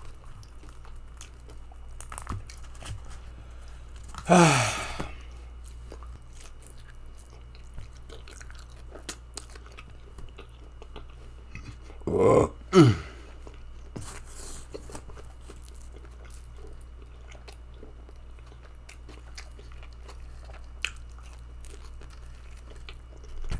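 A person chewing and biting pizza close to the microphone, with light crunching and small mouth clicks. Twice, about four seconds in and again about twelve seconds in, there is a short louder sound that falls in pitch.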